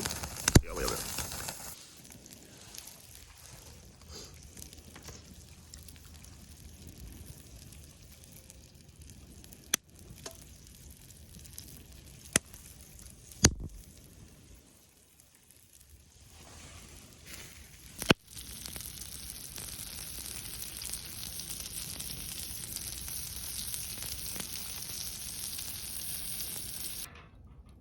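Meat sizzling over a wood fire, with a few sharp clicks and knocks about halfway through. The sizzle grows louder and steadier in the last third, then cuts off suddenly.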